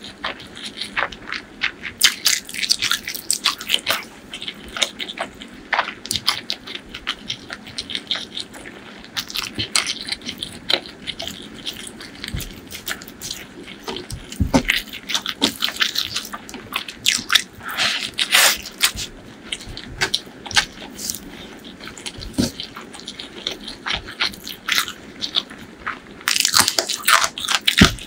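Close-miked eating: a person chewing and biting into chicken liver and gizzard curry with rice, raw onions and green chillies, with many irregular crunchy, wet clicks and crackles. The chewing gets busier near the end.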